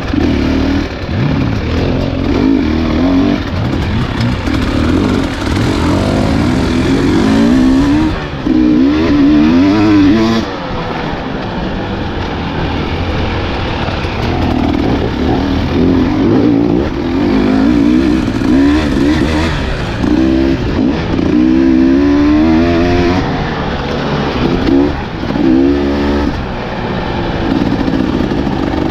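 Husqvarna enduro dirt bike engine being ridden on a trail, its revs rising and falling again and again with the throttle.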